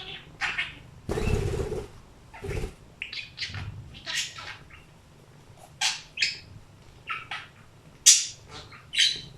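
Budgerigar chirping and chattering in a rapid series of short, high calls, with a louder rustling burst about a second in.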